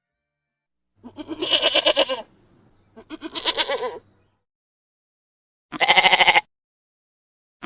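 Sheep bleating: two long, wavering bleats close together, then after a pause a shorter, quavering bleat near the end.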